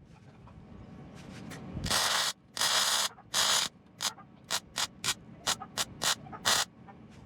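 MIG welder plug welding steel body panel in short bursts of crackling hiss: three bursts of about half a second, then eight shorter ones in quick succession. The shielding gas is running low, which the welder suspects.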